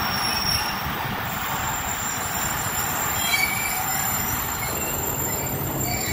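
Passenger train rolling slowly through a station: a steady rumble of wheels on rail, with a thin high wheel squeal over it from about a second in.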